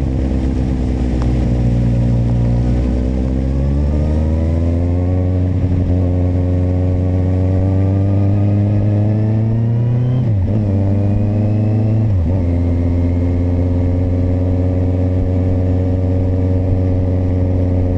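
Kawasaki motorcycle engine pulling up through the gears. Its pitch rises steadily for several seconds, drops sharply twice in quick succession (two upshifts), then holds steady at a cruise.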